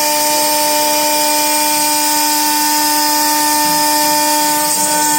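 Beswell BW2040 stone CNC router running, its spindle giving a steady high-pitched whine over a constant hiss.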